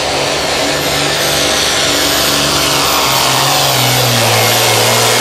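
Turbocharged International hot farm pulling tractor's diesel engine running flat out under load as it pulls the sled, a loud steady engine note that dips slightly in pitch near the end.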